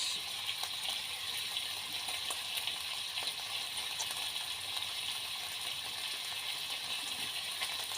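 Bacon sizzling in a hot frying pan: a steady hiss with small scattered crackles.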